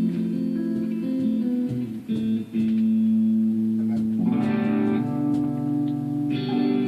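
Guitar playing: sustained picked notes and chords, with fuller strummed chords about four seconds in and again near the end.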